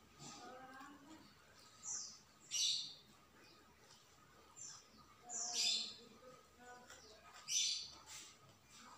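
A bird calling three times, a few seconds apart: each call is a short falling chirp followed by a louder, harsher note.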